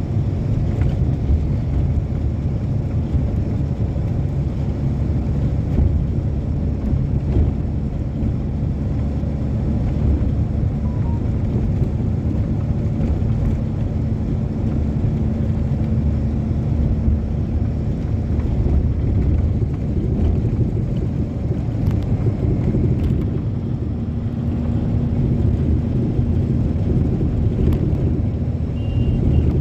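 Passenger train running, a steady low rumble of wheels and carriage heard from a coach window, with a faint steady hum coming in twice.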